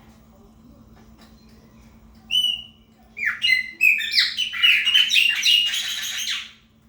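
Chopi blackbird singing: a single clear whistled note about two seconds in, then a quick run of whistled notes lasting about three seconds.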